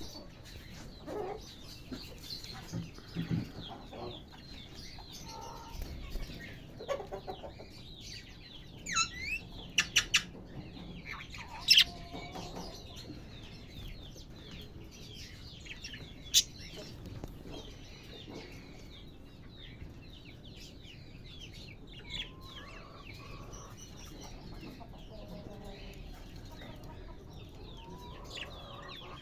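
A flock of budgerigars chattering, a dense run of short high chirps throughout, with a few louder, sharper calls in the first half.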